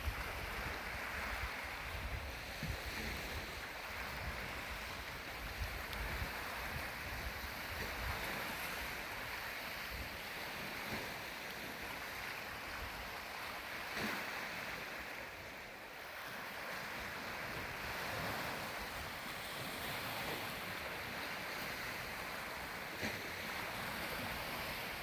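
Lake waves washing steadily on the shore, with wind buffeting the microphone.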